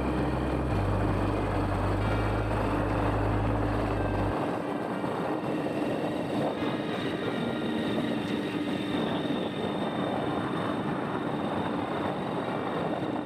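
Motorcycle engine running at a steady speed while riding, with a steady hum over road and wind noise. A deep low hum underneath cuts off about four seconds in.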